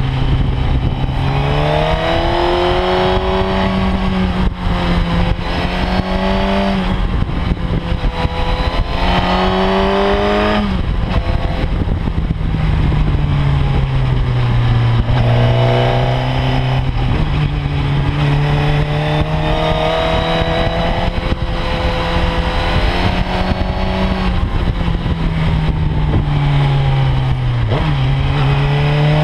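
Onboard sound of a sport motorcycle's engine pulling up a winding road. The engine note rises as it accelerates and sags as it eases off, with several sudden steps in pitch where gears change.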